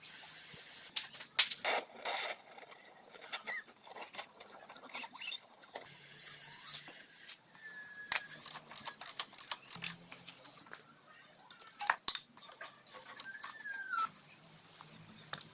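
Scattered sharp metal clicks and taps of hand tools and engine parts being handled, with a quick run of rapid clicks about six seconds in. Two short squeaky chirps are heard, one about eight seconds in and one near the end.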